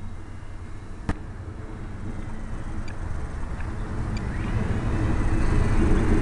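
A car getting under way, its engine and road noise growing steadily louder, with a sharp click about a second in and a thin rising whine near the end.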